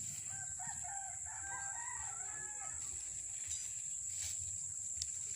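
A rooster crowing once, a pitched call of about two and a half seconds that starts just after the beginning, over a steady high-pitched whine.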